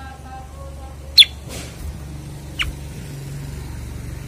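Common iora (cucak kurincang) giving short, sharp chirps that sweep downward. A loud one comes about a second in, a fainter one past halfway and another loud one at the end, over a low steady hum.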